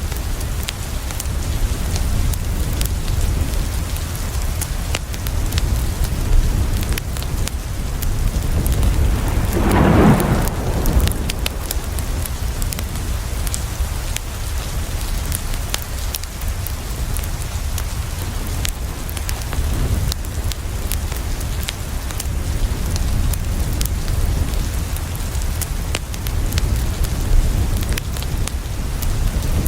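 Steady heavy rain on a window with a deep continuous rumble and scattered sharp ticks, and about ten seconds in a short swell of thunder.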